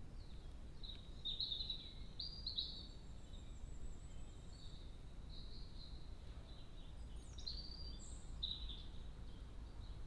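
Small birds chirping and singing in high, short phrases, in two spells separated by a brief lull, over a steady low outdoor rumble.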